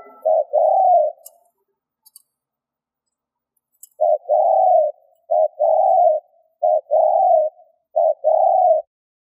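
Spotted dove cooing: the tail of one phrase ends about a second in, then after a pause of over two seconds comes a run of four paired coos, each a short note followed by a longer one.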